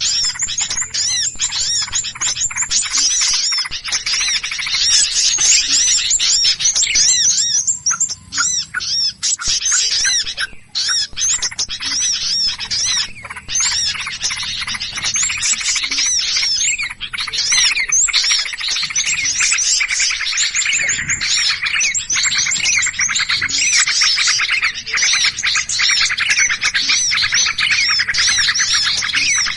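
Many small songbirds chattering and calling at once in a dense, rapid stream of high chirps and squeaky notes: an agitated, mobbing-style chorus of the kind used as a bird-trapping lure.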